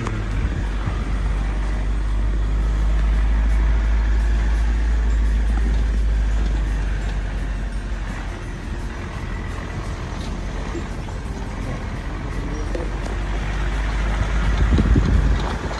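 Motor vehicle running, a steady low rumble with a brief swell near the end.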